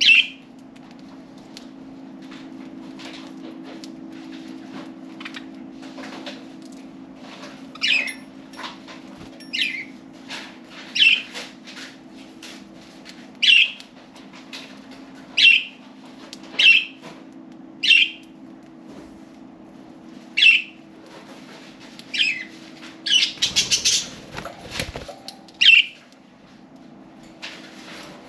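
Pet budgerigars giving loud, sharp single chirps, one every second or two, with a brief flurry of wingbeats a few seconds before the end.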